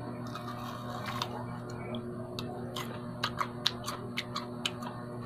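A person biting and chewing a raw kamias (bilimbi) fruit: a string of short, sharp crunching clicks, thickest in the second half, over a steady low hum.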